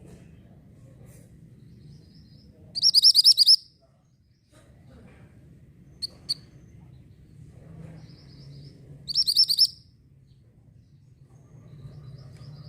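Orange minivet (mantenan) singing: two loud bursts of rapid, high repeated notes, each under a second and about six seconds apart, with a couple of short sharp chips between them. A low steady hum runs underneath.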